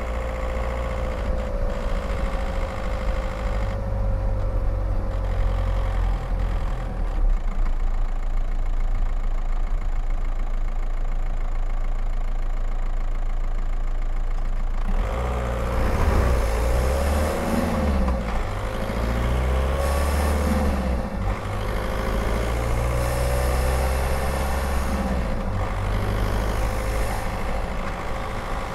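Skoda Octavia 1.9 TDI four-cylinder turbodiesel engine, heard from outside at the driver's window while the car drives. The engine runs steadily at first. About halfway through, its note starts rising and falling as the car accelerates through the gears, with more wind and tyre hiss.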